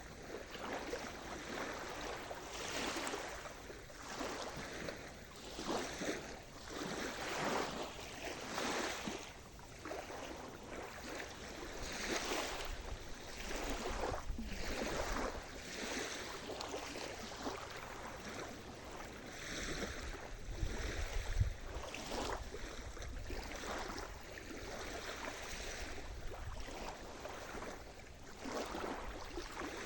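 Sea surf washing ashore, waves breaking and receding in repeated swells every second or two, with some wind rumble on the microphone near the middle.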